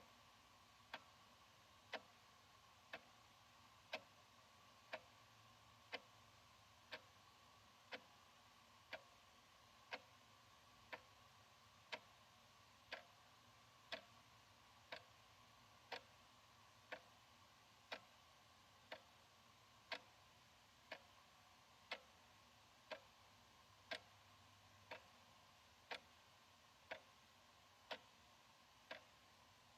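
Analog wall clock ticking faintly, one even tick every second.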